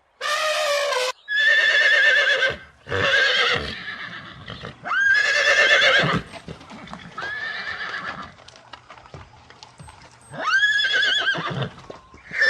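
Horses whinnying: about six wavering, high neighs of about a second each, with short gaps between them.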